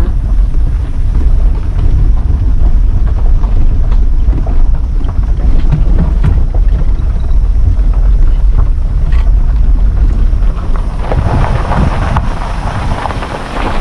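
Loud, steady low rumble of wind buffeting the microphone, with a rain-like hiss building in the last few seconds.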